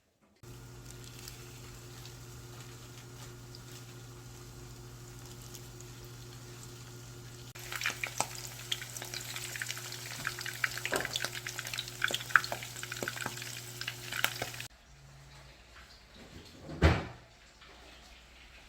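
Oysters frying in hot oil, crackling with many sharp pops over a steady hum; the crackling starts about halfway through and cuts off suddenly. A single dull thump follows near the end.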